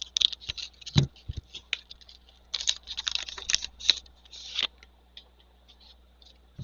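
Trading cards being handled: a quick run of light clicks and scrapes as cards are slid and flicked against each other, with a soft thump about a second in. It falls quiet for the last couple of seconds.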